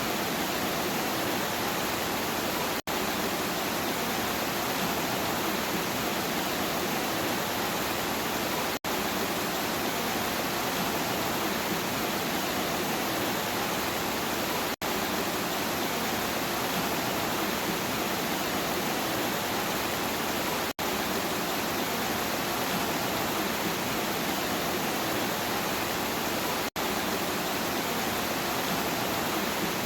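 Steady heavy rain falling, an even rushing hiss, broken by a brief dropout about every six seconds.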